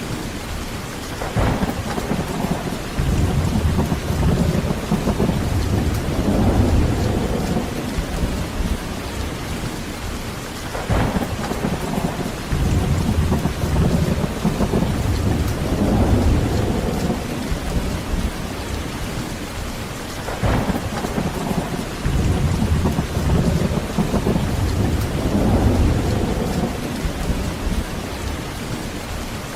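Heavy rain falling steadily, with rolling thunder that swells and fades three times. Each roll opens with a short crack.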